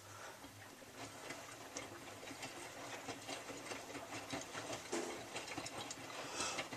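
Miele W3744 washing machine drum turning during the wash: a low motor hum that comes in right at the start, with steady rattly clicking and swishing of the washload.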